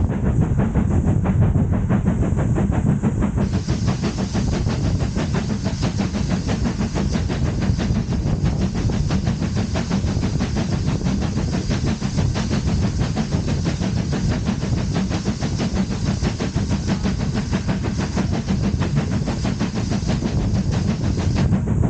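A train running steadily along the line: a continuous low rumble with a hiss above it, with no break or change.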